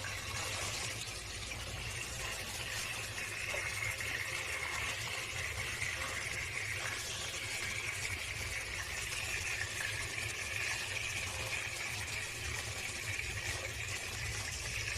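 Marinated chicken pieces sizzling steadily as they fry in hot olive oil in a pan, with a low steady hum underneath.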